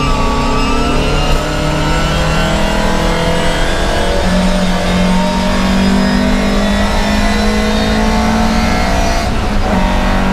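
In-cabin sound of a racing Volvo 544's four-cylinder engine pulling hard under acceleration, its note rising steadily over several seconds. There is a brief dip about a second in and a shift in the note near the end.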